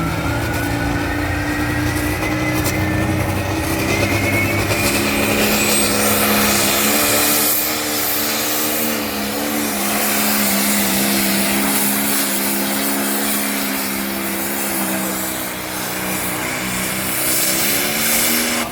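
Pulling tractor's engine running hard at high revs under load, loud and steady, with a high whine climbing in pitch over the first few seconds.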